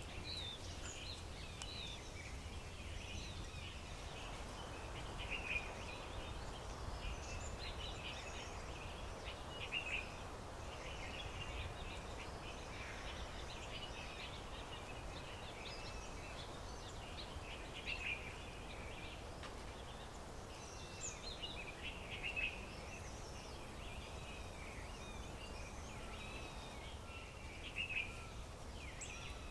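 Several wild birds chirping and singing at once, with short overlapping calls and a few louder calls every few seconds, over a steady low rumble of outdoor background noise.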